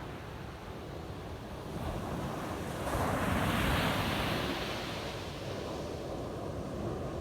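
Ocean waves breaking on a sandy beach: a wave crashes in about three seconds in, its rush of surf swelling and then fading back to a steady wash, with wind rumbling on the microphone.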